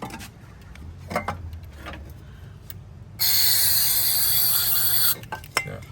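Metallic clicks and rattles of hand tools being worked, then a loud, steady hiss lasting about two seconds that cuts off suddenly, followed by a few more clicks.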